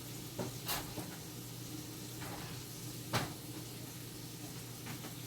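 A baking tray of squash going back into the oven: a few light knocks in the first second, then one sharp knock, the oven door shutting, about three seconds in, over a steady low hum.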